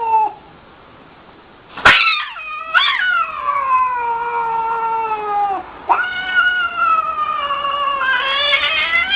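A cat yowling in long, drawn-out calls. The first starts about two seconds in, jumps up in pitch and then slowly falls; a second long yowl begins about six seconds in.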